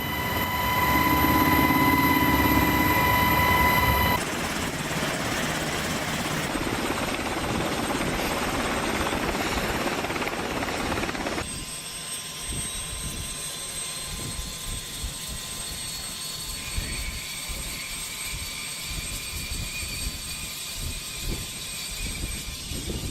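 Helicopter running, a steady turbine whine over rotor and engine noise, the sound shifting abruptly about four and eleven seconds in.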